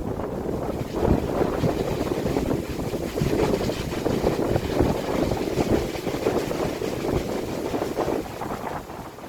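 Strong gusty wind buffeting the microphone, a low rumbling rush that swells and eases, dropping off a little near the end.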